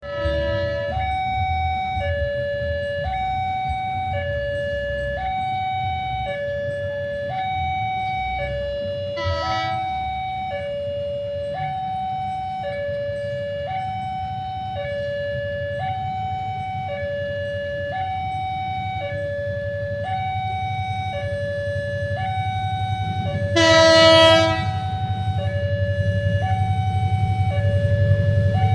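Level-crossing warning alarm sounding a steady electronic two-tone signal that alternates between a lower and a higher note about once a second, warning that a train is coming. A horn sounds briefly about nine seconds in and louder for about a second near the end, over a low rumble that builds near the end.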